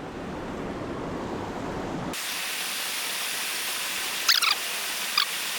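Steady rushing of creek water. About two seconds in it turns abruptly brighter and hissier, and two brief high-pitched chirps come near the end.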